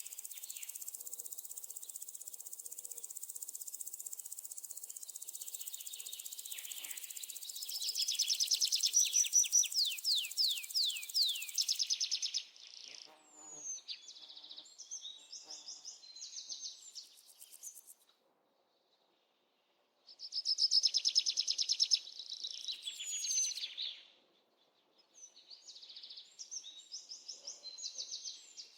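High-pitched bird chirps and quick falling trills over a steady insect hiss, which stops about twelve seconds in. The sound cuts off abruptly twice, leaving silence for a second or two each time.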